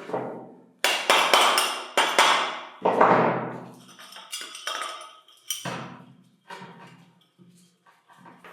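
A hammer striking metal parts, each blow ringing on briefly. A quick run of heavy blows comes in the first three seconds, then lighter taps, with one more heavy blow before the end.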